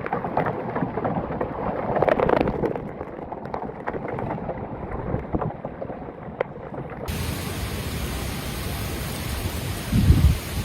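Heavy storm rain pouring down as a dense steady hiss. About seven seconds in, the sound changes to a brighter, even hiss of downpour, and a loud low rumble swells near the end.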